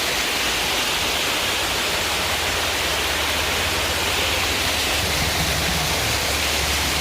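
Small river waterfall: falling water rushing steadily.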